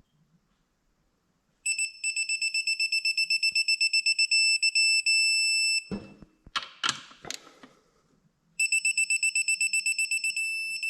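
Electronic torque wrench beeping fast and high-pitched as the Kohler K241's rod cap bolts are pulled up toward 240 inch-pounds, the beeps running into a steady tone that signals the set torque is reached. This happens twice, once per bolt, with a few sharp ratchet clicks between.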